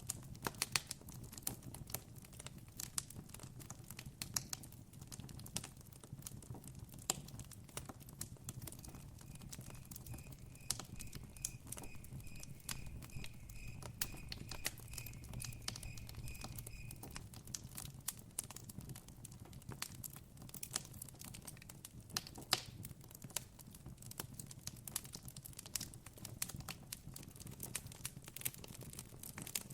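Campfire crackling, with frequent small pops and snaps from the burning wood over a low steady hum. From about nine seconds in to about seventeen seconds, a cricket adds a high trill of evenly spaced chirps.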